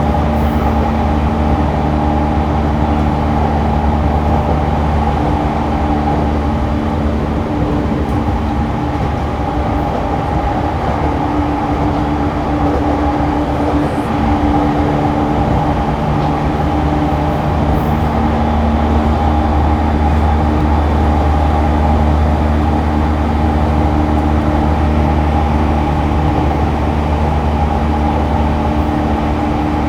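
Cabin running noise of a JR East E231-1000 series electric commuter train at speed. A steady rumble of wheels on rail runs under a steady electric hum, and the hum fades out briefly about ten seconds in, then returns.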